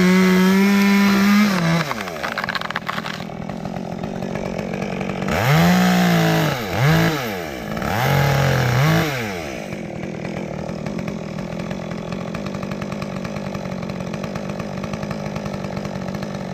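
Two-stroke chainsaw held at high revs for the first second or so, then dropping back. It is revved in three short blips between about five and nine seconds in, then runs steadily at idle.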